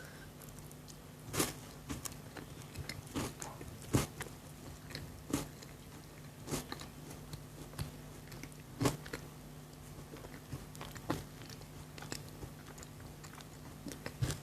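Close-up biting and chewing of chocolate, with crisp irregular crunches every second or two over a faint steady low hum.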